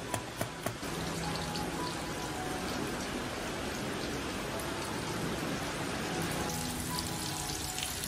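Steady rain falling, an even hiss, with soft background music. A few sharp taps sound in the first second.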